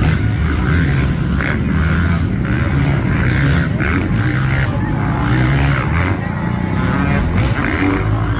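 Motocross bike engines running loud and continuous, their pitch rising and falling as the riders rev.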